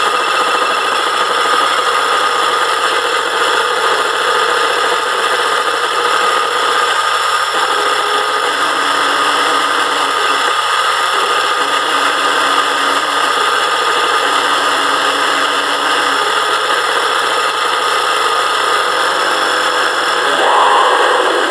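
Dense, steady electronic noise drone, a thick mechanical-sounding wash with a high tone held through it, swelling slightly just before the end.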